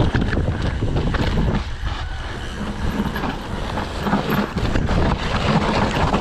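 Downhill mountain bike (Trek Session 9.9) riding fast down a damp dirt trail: a steady rumble of tyres over the ground, broken by many sharp knocks and rattles from the bike over bumps.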